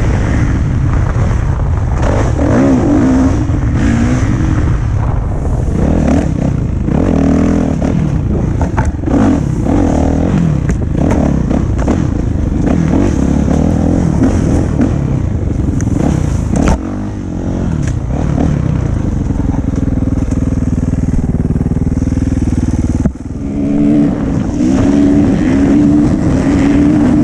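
Dirt bike engine running while riding a trail, its pitch rising and falling as the throttle opens and closes, with scattered knocks and rattles.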